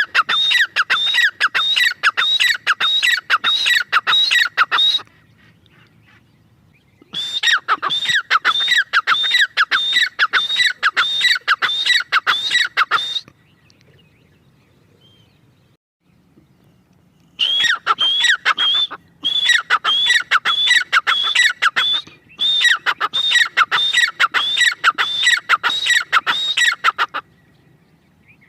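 Grey francolin (teetar) calling: a rapid series of loud, sharp repeated notes, about three a second, in bouts several seconds long with pauses between.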